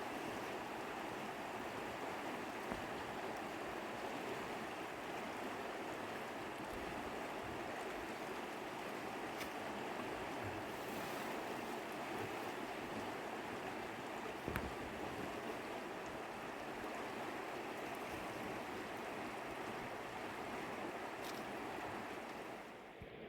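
Mountain river rushing steadily, an even wash of running water that stops just before the end.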